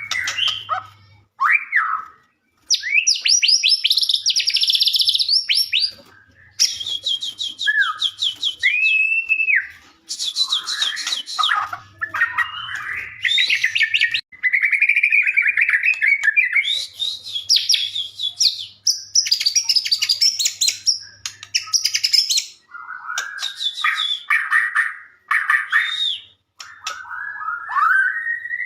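White-rumped shama (murai batu) in full song: a varied run of loud whistled phrases, fast rattling trills and sliding notes, with short pauses between phrases.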